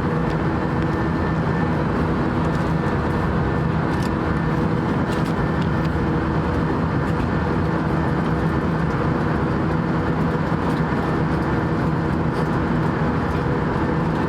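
Steady rushing noise and low hum inside an Airbus A320 passenger cabin, unchanging throughout.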